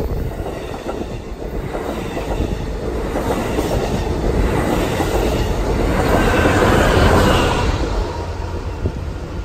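Passing train rolling by on the tracks, a steady rumble of wheels on rail that swells about six seconds in and drops off near the end.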